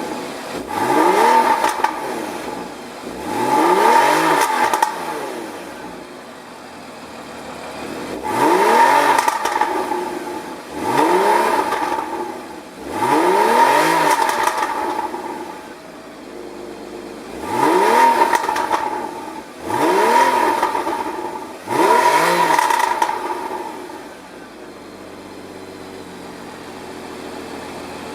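Porsche Cayman S (981) 3.4-litre flat-six revved from idle about eight times in quick blips, each climbing and falling back, then settling to a steady idle for the last few seconds.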